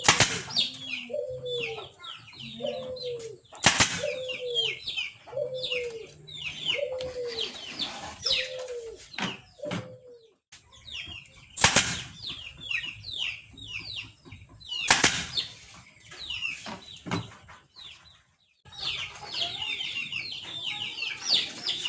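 Birds chirping, with a run of short lower clucking calls about every half-second during the first half. A few sharp knocks stand out, the loudest near the start and about twelve seconds in.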